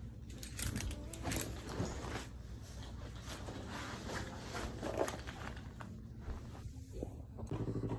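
Handling noises: rustling with scattered clicks and rasps, like gear being put on. About seven and a half seconds in, a motorcycle engine comes in, running steadily.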